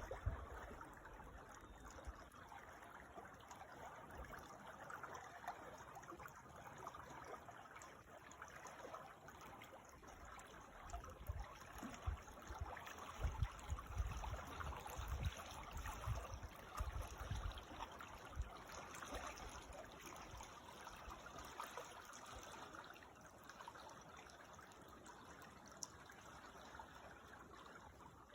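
A creek's water running and trickling steadily. There are irregular low rumbles through the middle stretch.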